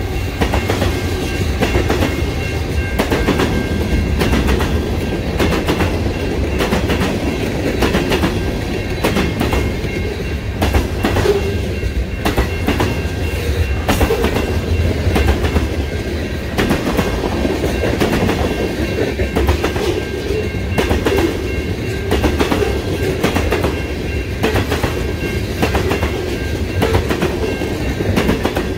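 Freight train's tank cars rolling past: steel wheels clicking over rail joints in a fast, uneven clatter over a steady low rumble.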